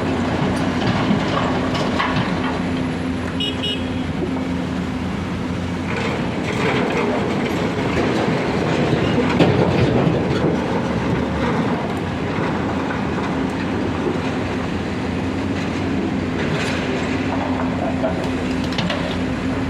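Heavy diesel engines of an excavator and a tipper truck running steadily, with scattered metallic clanks and knocks.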